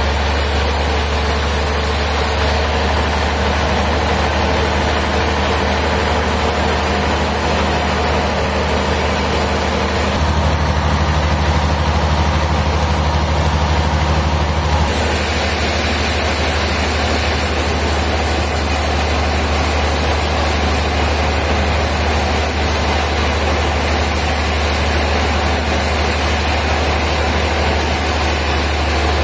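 Heavy engine running steadily under a dense noise. About ten seconds in, it gets a little louder and its tone shifts for roughly five seconds, then settles back.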